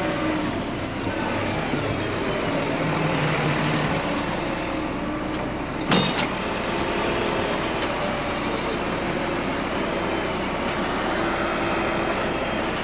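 Snowplow truck's engine running steadily close by, its pitch shifting a little. A single sharp metallic clank about six seconds in is the loudest sound.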